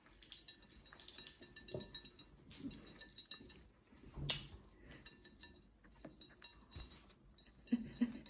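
Green cheek conure working a walnut with its beak: quick runs of small clicks and taps with a bright clinking ring, and one louder knock about four seconds in.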